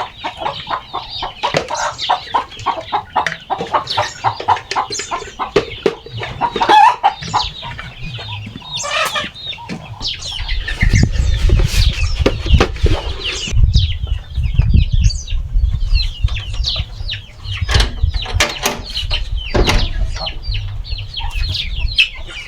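Chickens clucking, with many short sharp sounds throughout. From about ten seconds in, a heavy low rumble sets in beneath them.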